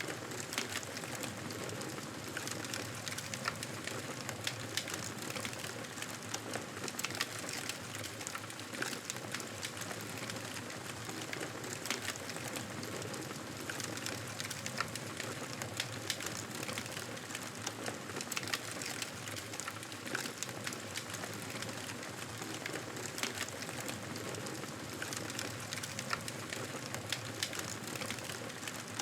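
Wood fire in a fireplace crackling: a steady hiss with frequent small, sharp pops throughout.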